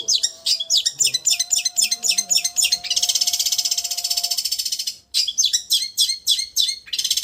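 Long-tailed shrike (cendet) singing: runs of sharp, high chirps alternating with a fast, even trill, with an abrupt break about five seconds in.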